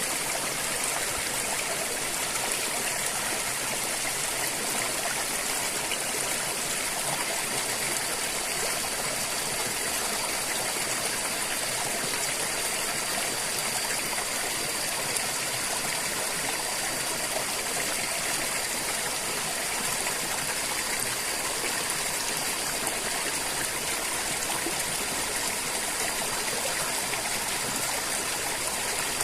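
River water flowing and rushing over rocks, a steady, even wash of sound.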